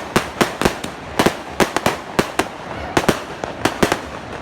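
Fireworks going off: a dozen or so sharp bangs at an irregular pace, about three a second, over a steady background of crackling.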